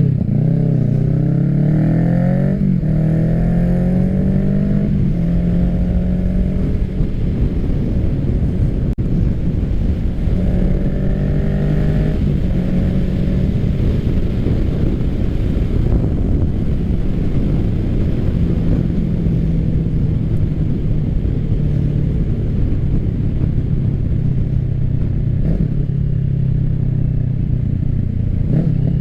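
Kawasaki Ninja 650's parallel-twin engine through an M4 full aftermarket exhaust, pulling up in revs twice, in the first five seconds and again around ten seconds in, then running at a steady pitch.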